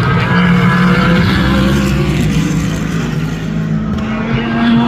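Race car engines running hard on track, a loud steady engine drone; one engine note rises in pitch near the end.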